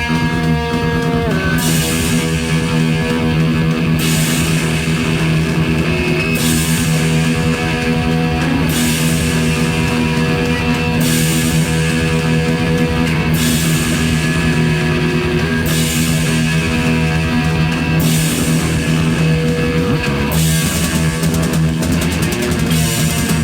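Hard rock band playing an instrumental passage: electric guitar holding long, bending notes over steady bass and drums, with cymbals recurring about every two seconds.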